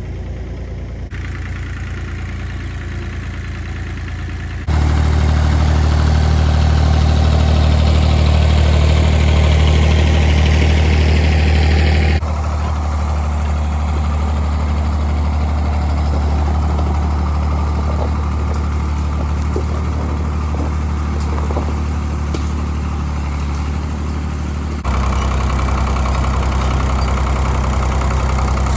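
Three-cylinder diesel engine of a 1985 Ford 1910 tractor running steadily. It turns abruptly louder about five seconds in, drops back about twelve seconds in, and shifts again near the end.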